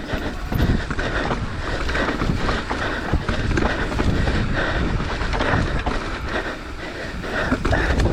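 Mountain bike descending a rough trail at speed: tyres rolling over dirt and rock while the bike's frame and chain rattle and clatter continuously with each bump.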